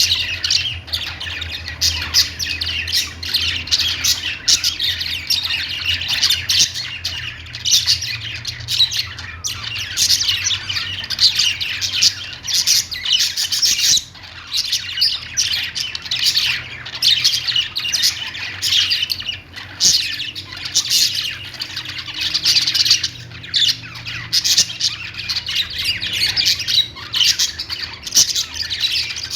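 A group of budgerigars chirping and squawking together in a dense, unbroken chatter of many overlapping high calls.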